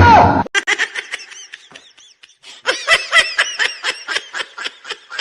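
A loud sound cuts off about half a second in, then high-pitched laughter runs on in quick, short bursts, several a second.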